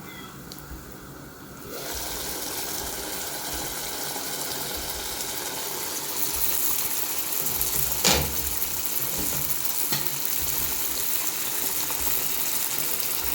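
Chicken pieces cooking in a tomato curry sauce in a pot, a steady sizzling hiss that starts suddenly a couple of seconds in and grows a little louder. A single sharp knock against the pot comes about two-thirds of the way through.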